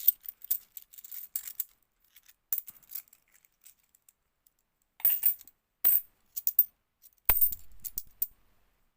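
50p coins clinking against each other as they are handled and sorted, in scattered light clicks with louder clatters about five and six seconds in and a heavier clatter with a dull thud a little later.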